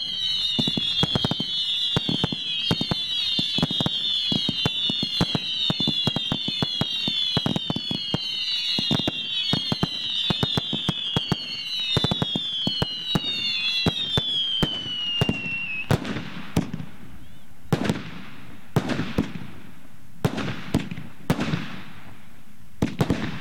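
Fireworks going off: a rapid barrage of sharp bangs under overlapping whistling shots, each whistle falling in pitch. The whistles stop about two-thirds of the way through, leaving a few separate bangs that echo.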